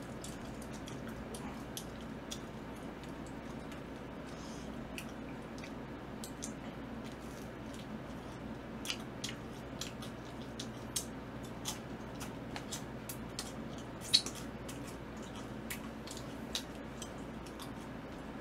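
A man chewing pizza close to the microphone: many small mouth clicks and smacks over a steady low background hum, with one sharper click about 14 seconds in.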